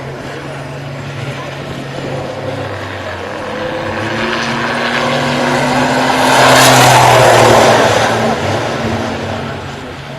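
Racing truck's engine passing close by: it swells from a steady hum to its loudest about seven seconds in, then fades away.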